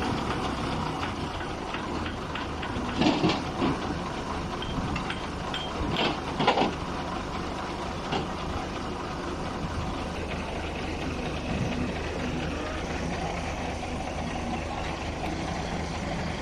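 An engine idling steadily, with a few short louder sounds about three and six seconds in.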